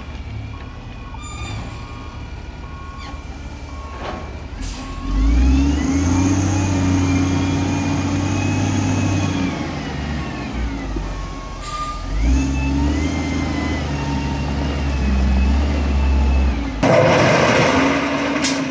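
Heavy earthmoving machine's diesel engine, revving up twice under load and holding high before dropping back, with a short beep repeating about once a second in the first few seconds. Near the end the sound cuts abruptly to a louder, rougher machine noise.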